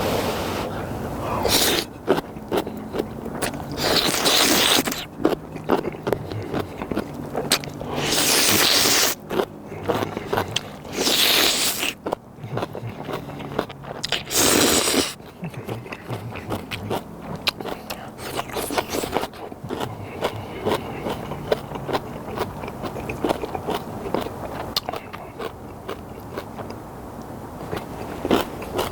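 Close-miked eating of spicy instant ramen: steady chewing and wet mouth clicks, broken by four loud slurps of noodles about a second each in the first half.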